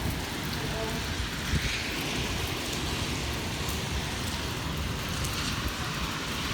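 Strong storm wind blowing: a steady rushing noise with a low rumble of wind on the microphone.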